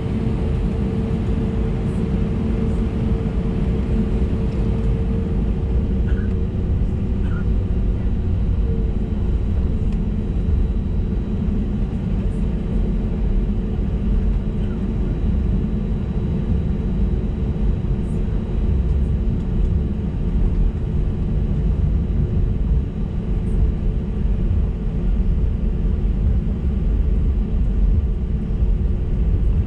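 Cabin noise of an Airbus A320neo taxiing: a steady low rumble with the hum of its CFM LEAP-1A engines at taxi power, including a steady tone that fades about seven seconds in.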